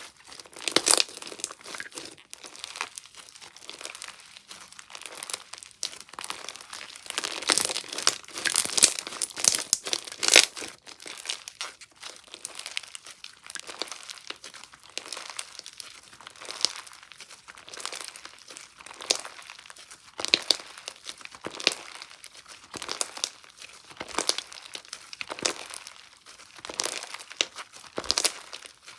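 A slime being squished, stretched and pressed by hand, giving a dense run of small crackles and crinkly pops, busiest a little after a quarter of the way in.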